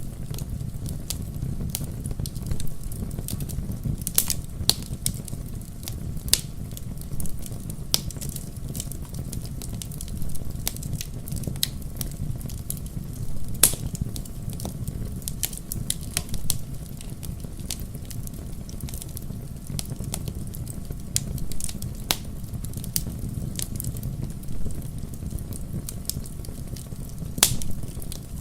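Wood fire burning in a fireplace: a steady low rumble of the flames with irregular sharp crackles and pops throughout, one louder pop about halfway through.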